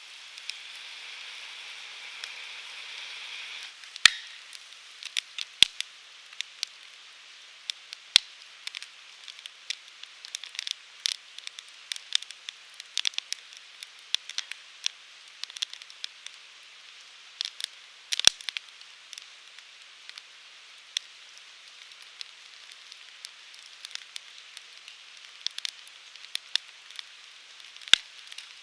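Wood fire crackling and popping in an open fire pit, with frequent sharp snaps of burning firewood. For the first four seconds a steady hiss comes from the burning wood, ending at a loud pop.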